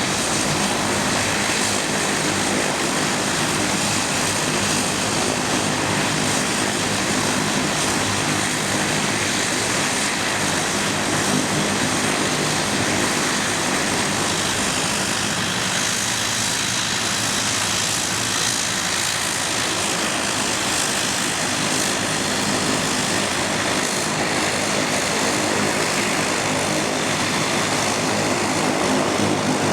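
De Havilland Dash 8-100's Pratt & Whitney Canada PW120-series turboprop engines running steadily after start, a propeller drone with a high turbine whine above it.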